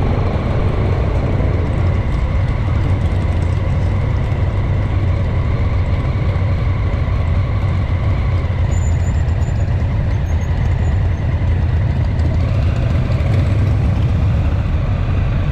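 Motorcycle engine running steadily, a constant low rumble with no clear revving or gear changes.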